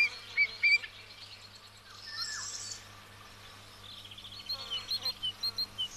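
Small birds chirping and singing: a few quick chirps at the start, then a run of short, evenly spaced notes, about four a second, in the second half.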